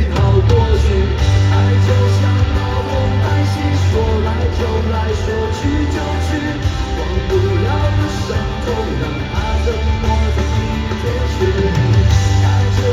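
Live rock band music at an arena concert, with guitar and heavy bass playing steadily.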